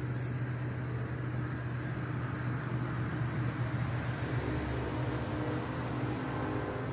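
Train passing: a steady low hum over a rushing noise that grows fuller about four seconds in.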